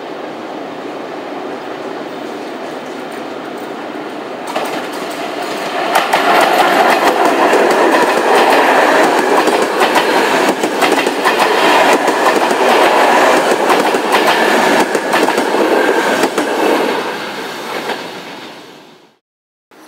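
Passenger train's coaches rolling past close by, the wheels clacking over the rail joints. It swells about four seconds in, stays loud for most of the passing, then fades away and cuts off sharply near the end.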